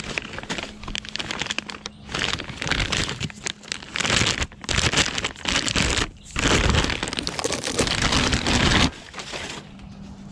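Packaging crinkling and rustling in irregular bursts as a new catted downpipe is unwrapped and handled.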